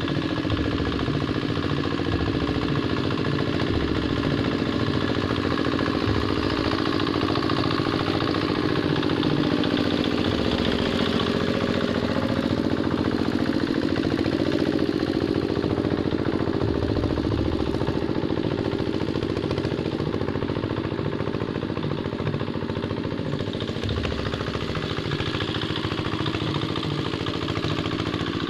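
Two-wheel hand tractor's engine running steadily with a clatter while working a wet rice paddy.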